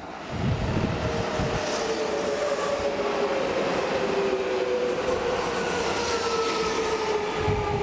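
A Seibu Shinjuku Line express commuter train moving alongside the platform, with a loud rumble of wheels and a steady whine that slowly falls in pitch.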